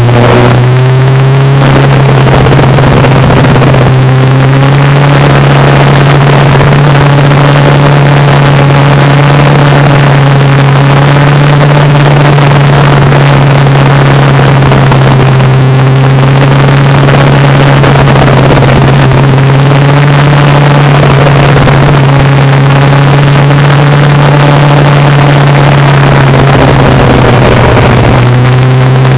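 Motorcycle engine running loud and steady under a light throttle, its note drifting slightly up and down, heard from a camera on the bike with wind rushing over the microphone.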